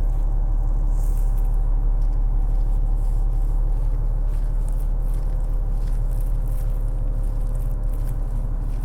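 Steady low rumble of city traffic with a steady mechanical hum over it.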